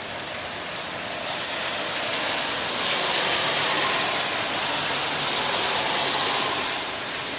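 Rain mixed with wet snow falling, a steady hiss that swells louder for several seconds in the middle, with a faint steady tone under it.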